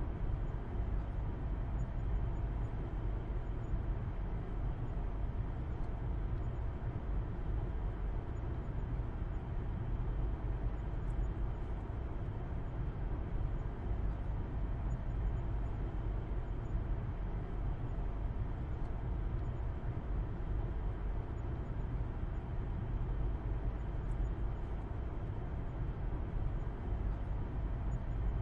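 Steady road noise and engine hum of a car driving at an even speed, heard from inside the cabin: a constant low rumble with no changes.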